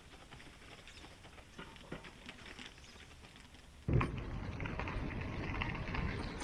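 Faint scattered ticks and light rustling, then a sudden cut about four seconds in to loud wind noise rushing over the microphone.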